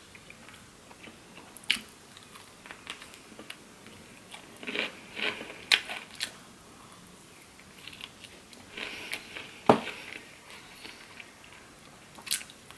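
Close-up biting and chewing of crispy fried chicken, with crunching breading and scattered mouth clicks; two bursts of crunching, about five and nine seconds in, the loudest a sharp crunch near ten seconds.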